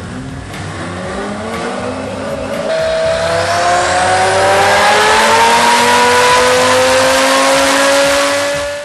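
Heffner twin-turbo Lamborghini Gallardo V10 making a full-throttle dyno pull in 4th gear, its engine note climbing steadily in pitch and getting louder as the revs rise.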